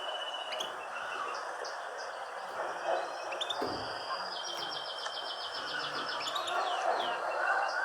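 Songbirds chirping and whistling in high thin notes, with a fast trill lasting nearly two seconds in the middle, over a steady background hiss of ambient noise.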